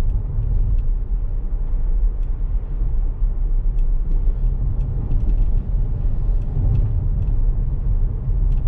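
Steady low rumble of road and tyre noise inside the cabin of a Tesla driving along.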